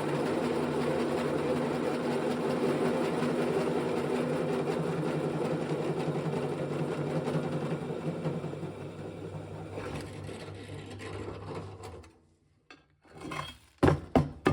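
An electric motor-driven shop machine running steadily with a mechanical whir, winding down and stopping about twelve seconds in, followed by a few sharp knocks.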